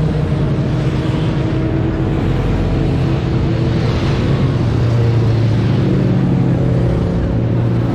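Motorcycle engines running steadily as a group of bikes rides along together, the engine note shifting slightly about halfway through.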